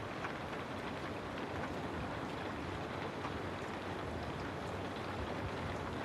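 Steady rain on a window: an even hiss with faint scattered drop taps.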